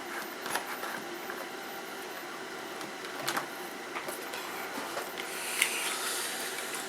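Small hand-tool clicks and scrapes against a circuit board while working at a stuck pin, with a soft hiss about five seconds in.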